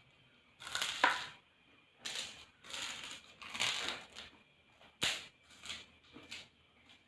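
Eating noises from people eating Indomie instant noodles close to the microphone: a run of about seven short, noisy mouth sounds as the noodles are slurped and chewed.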